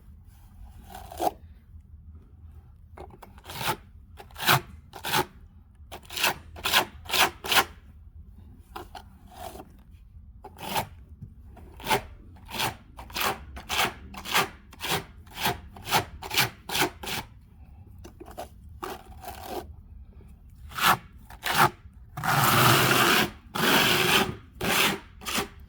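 Hand trowel scraping wet stucco patch mix across a stucco wall crack in many short strokes, with a longer, louder stretch of scraping near the end.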